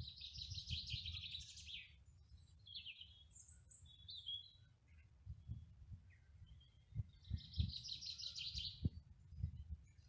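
Songbird singing: a rapid trilled phrase at the start and another near the end, with a few short high chirps between. Underneath runs a low rumble with some dull thumps.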